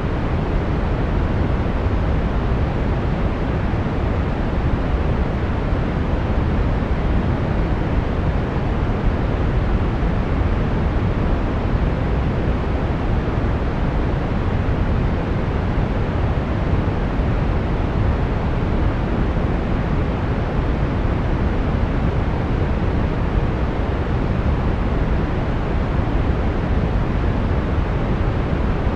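Brown noise: a steady, even rumbling hiss, strongest in the low end and fading toward the highs, with no change.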